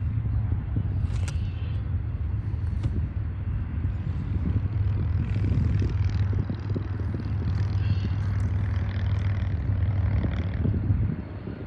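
Union Pacific diesel locomotives working a freight train, a steady low engine rumble that drops off about eleven seconds in.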